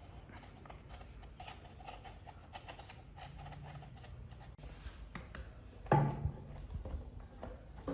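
Handling noises: scattered light clicks and taps, with one louder knock about six seconds in.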